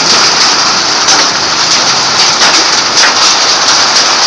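Hail pelting a vehicle's roof and windshield, heard from inside as a loud, continuous clatter of many hits.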